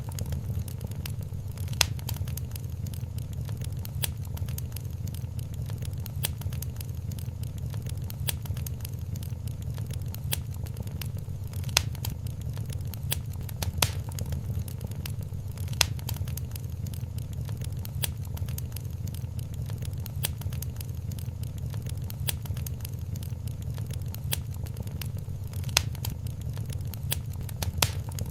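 Wood fire in a fireplace crackling, with scattered sharp pops over a steady low rumble of the flames; a few louder pops stand out, at about 2, 12, 14, 16 and 26 seconds in.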